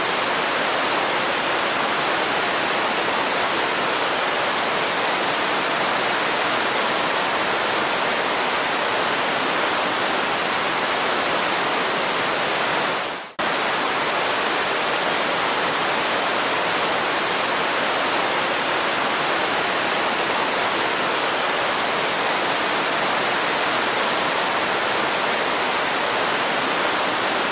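Waterfall rushing steadily as an even roar of falling water. About halfway through it briefly fades down and cuts back in abruptly.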